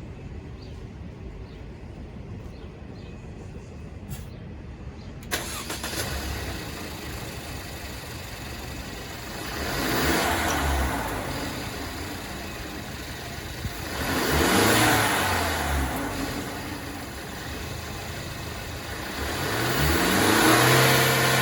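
2021 Mercedes-Benz Sprinter 2500 van engine cranking and starting about five seconds in, then idling. It is revved three times, each rev rising in pitch and falling back to idle.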